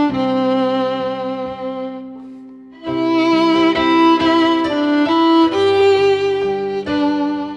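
Instrumental music led by violin over a low string or keyboard accompaniment, playing a slow melody with vibrato; one phrase fades away and after a short pause the next phrase begins about three seconds in.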